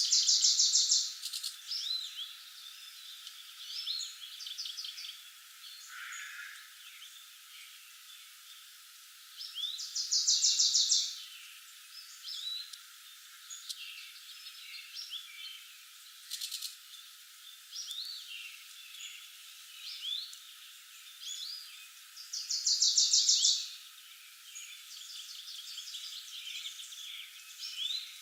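Woodland birds singing: one bird repeats a loud, rapid trill about a second long three times, roughly every twelve seconds, while other birds give short chirps and whistles between.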